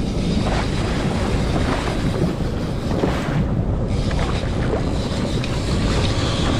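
Boat motor running steadily underway, with wind buffeting the microphone and water rushing along the hull.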